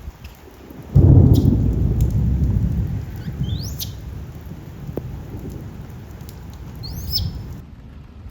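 A loud thunderclap about a second in, rolling into a long rumble that fades over several seconds, over steady rain. Two short rising bird chirps come through the storm.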